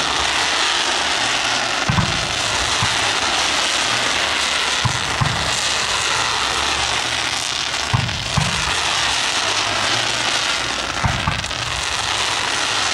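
Professional fireworks display going off close overhead: deep booms of shells in clusters of two or three, about every three seconds, over a continuous hiss.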